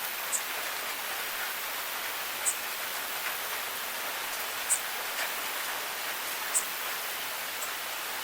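Steady rain falling as a dense, even hiss, with a single sharp drip about every two seconds.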